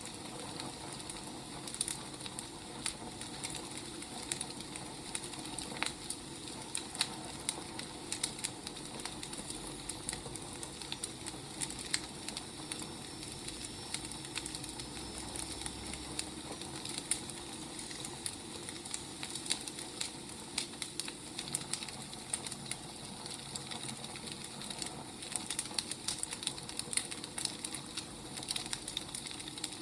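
Burning firewood crackling, with irregular sharp pops and snaps over a low steady hiss.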